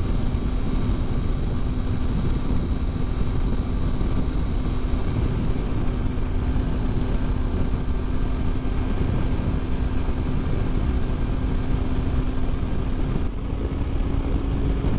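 Triumph Tiger 800 XRx's three-cylinder engine running at a steady highway cruise, with a constant drone and wind and road rumble.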